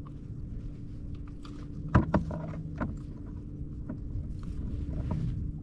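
Light knocks and rattles on a fishing kayak over a low steady rumble of wind and water, with one sharper knock about two seconds in and a few smaller ones after.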